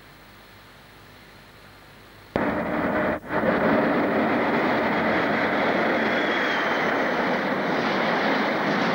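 Faint hiss, then a sudden cut in to a locomotive-hauled freight train of long covered vans running past close by, a loud steady rumble of wheels and wagons on the rails. The sound drops out for a moment about a second after it starts.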